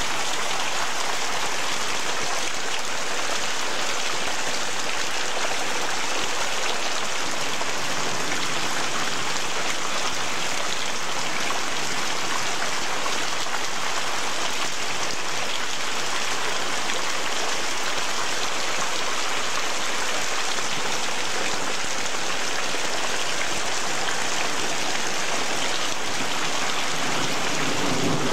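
Heavy rain falling steadily, a dense even hiss of drops splashing on pavement.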